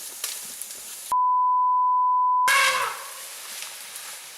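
A steady 1 kHz censor bleep, about a second and a half long, with all other sound cut out beneath it, followed straight away by a loud short cry.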